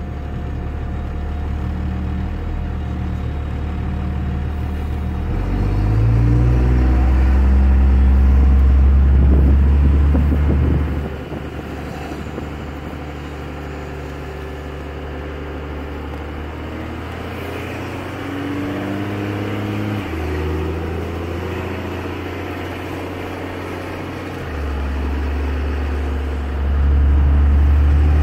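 2001 Dodge Ram 2500's Cummins diesel running through a 4-inch AFE exhaust with a deep, steady drone. The engine note rises and gets louder as the truck accelerates, about a fifth of the way in and again near the end.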